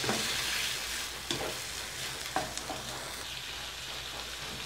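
Chicken livers and gizzards sizzling in hot oil in a wok, stirred with a wooden spatula, with a few light knocks of the spatula against the pan in the first half or so.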